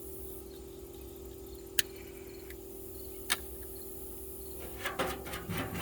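Steady background hum with faint cricket chirping, broken by two sharp single clicks about two and three seconds in and a cluster of small clicks and rustles near the end.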